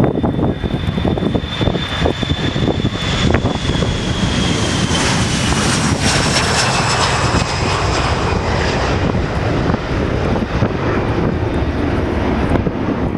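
Jet airliner passing close by: engine noise swells to its loudest around the middle, with high whining tones that slide down in pitch as it goes past. Gusty wind rumbles on the microphone throughout.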